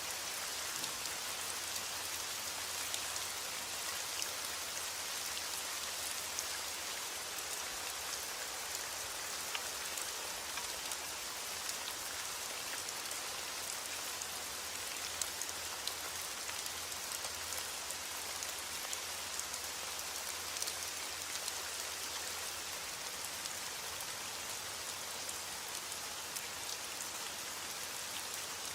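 Steady rain: an even hiss of falling rain with many small separate drop clicks throughout.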